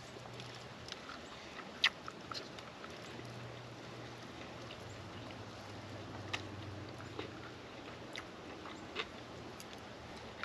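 A man chewing a mouthful of homemade sushi, with small scattered mouth clicks over a faint steady low hum.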